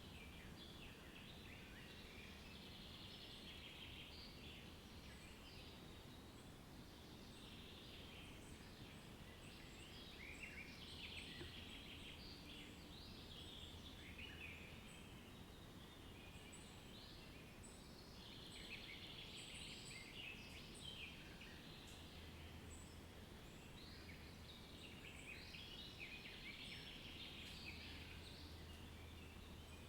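Faint birdsong: several birds chirping and trilling over and over, over a steady low hum.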